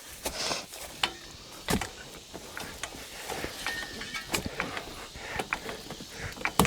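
A jack being worked to lift a heavy bus off the ground, giving irregular metal clicks and knocks with a few sharper knocks among them.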